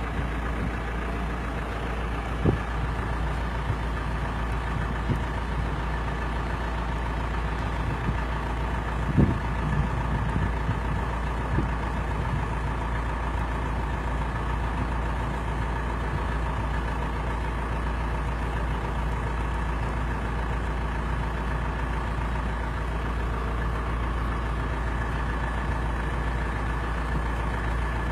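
A steady mechanical drone like an engine running, with a couple of brief knocks, one a couple of seconds in and a louder one about nine seconds in.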